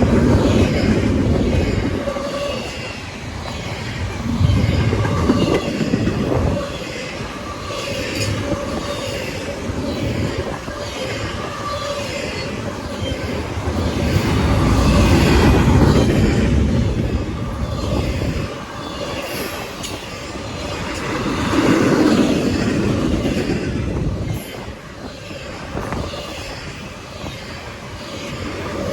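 CSX freight train cars rolling past on the main line, wheels clattering over the rails, the rumble swelling and fading every several seconds as the cars go by.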